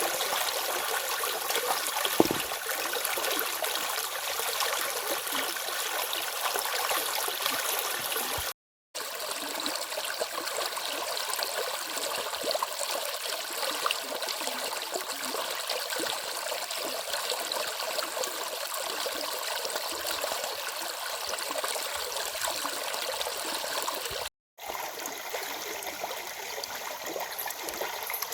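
Stream of water flowing steadily, with a continuous rushing splash. The sound cuts out to silence for a moment twice, about nine seconds in and again near twenty-four seconds.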